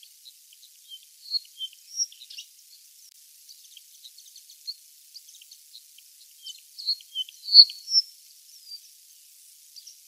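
Small birds chirping: many short, thin high notes, with a cluster of louder sharp calls about a second or two in and again around seven to eight seconds in.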